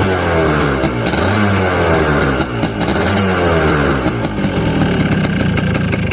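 1978 Kawasaki KH125's single-cylinder two-stroke engine running through its exhaust, blipped up in revs a couple of times with the pitch falling back after each, then settling to a steadier idle in the second half.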